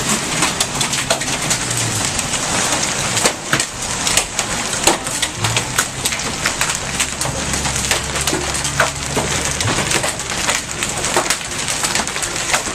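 Hailstorm: heavy rain with hailstones pelting hard surfaces, a dense hiss of rain broken by many sharp clicks and knocks of hail strikes. A low steady hum comes in underneath twice.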